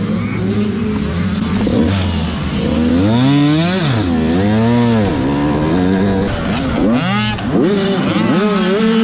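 85cc two-stroke motocross bikes racing, several engines revving hard, their pitch climbing and dropping sharply again and again from about three seconds in as riders work the throttle through the track.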